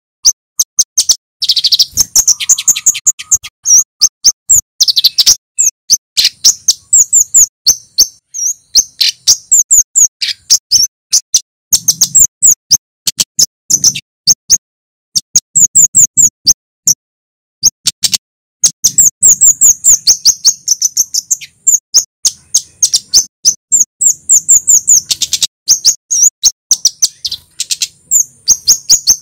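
Male kemade (flowerpecker) calling: rapid runs of short, sharp, high-pitched chip notes, repeated in quick bursts with brief pauses.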